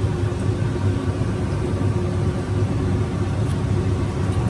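Steady low mechanical hum, like a motor or fan running, with a faint held tone above the rumble.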